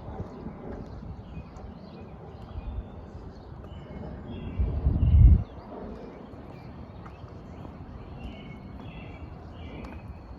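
Songbirds chirping, with many short, repeated high notes. A brief low rumble about five seconds in is the loudest sound.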